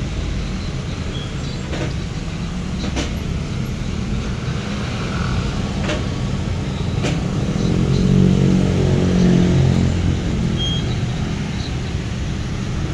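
Road traffic rumbling steadily, with a vehicle engine passing louder about eight to ten seconds in. A few sharp clicks stand out over it.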